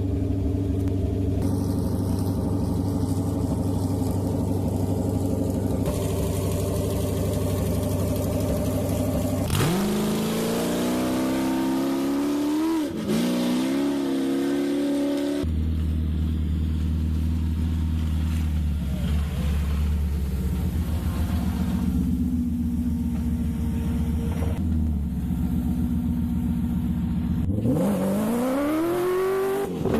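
Cross-country rally car engines, first running steadily at low revs, then revving hard with a rising pitch and a gear change as they accelerate away. After a sudden change to another steady engine note, a second hard acceleration comes near the end.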